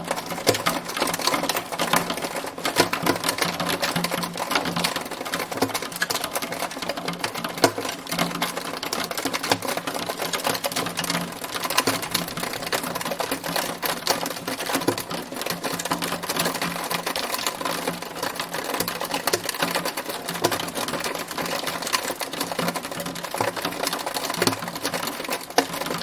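Hailstones pelting a hard surface in a dense, steady clatter of countless rapid clicks.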